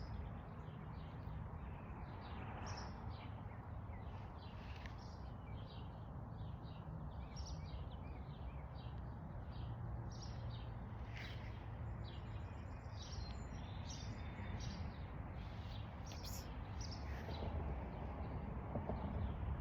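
Several birds chirping and singing on and off, over a steady low background rumble of outdoor ambience.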